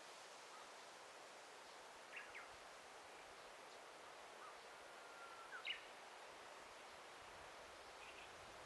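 Forest ambience: a faint, steady background hiss with a few songbird calls. There are short chirps about two seconds in, a thin held whistle rising into sharp notes around five to six seconds in, and a brief chirp near the end.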